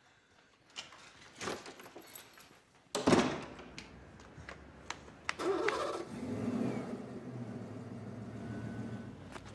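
A loud bang about three seconds in, with scattered clicks and footsteps around it, then a car engine starts and runs steadily, its pitch rising near the end.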